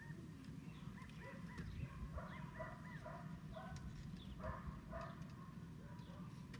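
A run of short, high-pitched squeaky calls or whimpers, strongest between about one and five seconds in, over a low steady rumble.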